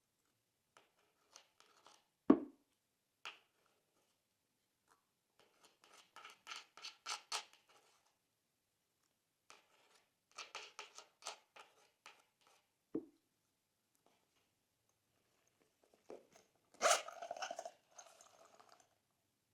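Thick glossy slime being worked by hand, crackling with bursts of small popping clicks. A sharp pop stands out about two seconds in, the loudest sound, and a second comes past the middle. Near the end there is a louder, wetter squelch.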